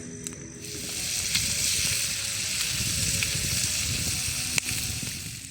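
Food frying in a pan: a steady hiss that sets in about a second in, with a few sharp pops, easing off near the end.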